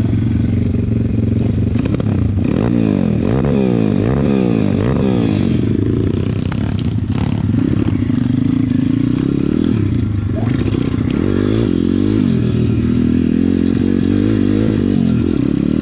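Pit bike engines running as the bikes ride off, revs rising and falling again and again.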